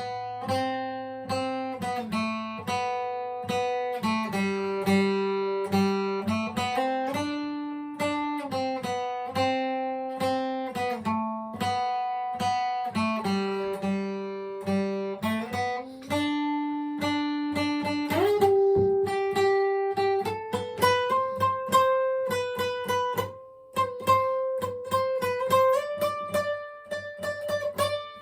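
Acoustic guitar strummed in a steady rhythm, an instrumental passage of chords that change every few seconds and move up higher about two-thirds of the way through.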